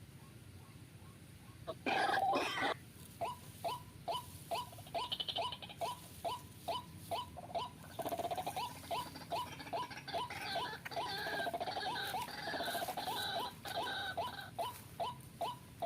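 White-breasted waterhen calling: a run of short, clipped notes repeated about two to three times a second, with a brief loud harsh burst about two seconds in and denser, harsher calling laid over the notes from about eight to fourteen seconds in.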